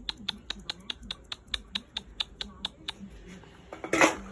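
A rapid, even series of clicks made with the mouth to call a cat, about six a second, that stops a little before the end. A louder, voice-like sound follows near the end.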